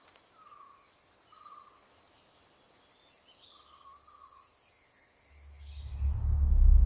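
Faint jungle ambience: a steady insect drone with a few short bird chirps. About five seconds in, a deep rumble swells up and becomes loud.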